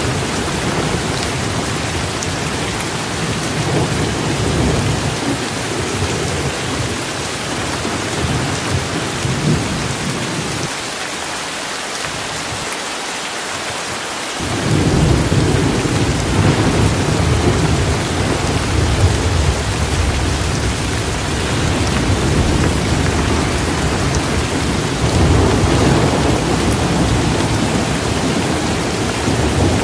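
Steady rain hissing, with a low rolling rumble of thunder underneath. The rumble drops away for a few seconds about a third of the way in, comes back louder around halfway, and swells again near the end.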